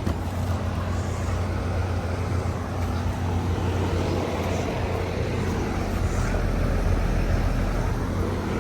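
Outdoor air conditioner and heat pump condensing units running: a steady low electrical hum under the even rush of the condenser fans. A deeper hum strengthens about halfway through.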